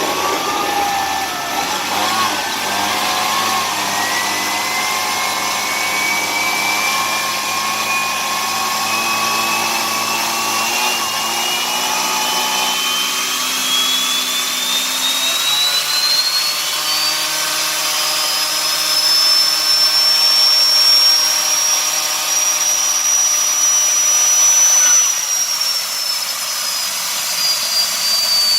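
Homemade gas turbine engine spooling up during start-up: a whine rising steadily in pitch for over twenty seconds, with a lower machine hum underneath. Near the end the lower hum cuts off and the whine eases down a little.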